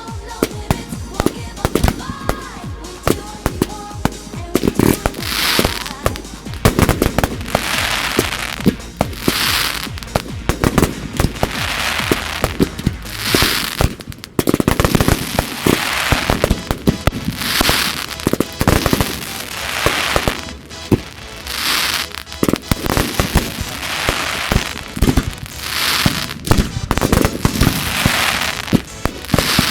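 Professional fireworks display: a dense run of sharp bangs, with a hissing crackle about every two seconds.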